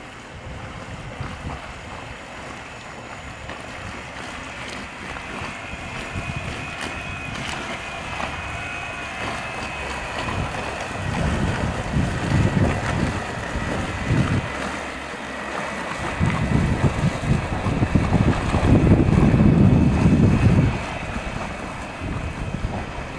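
Small boat under way with wind buffeting the microphone in gusts, loudest about halfway through and again near the end, over water rushing along the hull. A faint steady high whine from the brushless electric outboard motor runs underneath.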